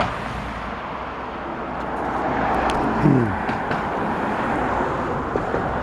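Steady rushing outdoor background noise, of the kind made by road traffic or wind on the microphone, with a short falling-pitched voice sound about three seconds in.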